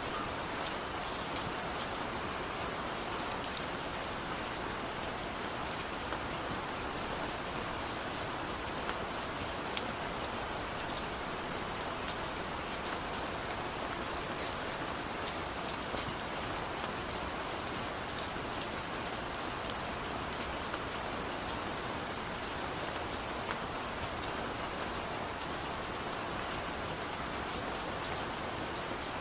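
Steady rain falling on a surface: an even hiss with many small drop ticks, no thunder.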